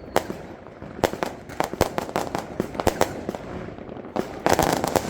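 Firecrackers going off in an irregular string of sharp bangs, about three a second, with a dense cluster of crackling bangs near the end.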